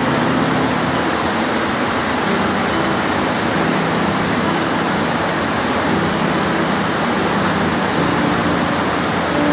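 Steady, heavy rain falling as an even hiss, with a faint low hum underneath.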